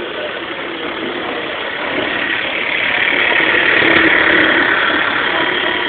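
Mamod model steam engine running steadily, driving a Meccano model. It swells louder with a stronger hiss about halfway through, then eases back.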